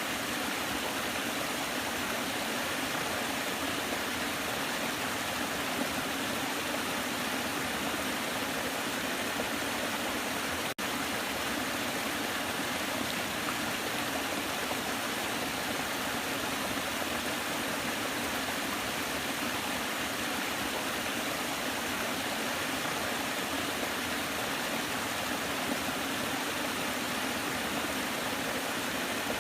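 Waterfall: a steady, even rush of falling water, with one momentary dropout about eleven seconds in.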